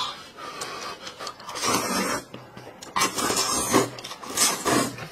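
A person slurping rice noodles in spicy soup, three loud slurps each under a second long.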